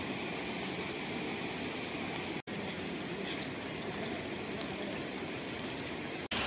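Steady hiss of rain falling outdoors, broken by two very short dropouts, one near the middle and one near the end.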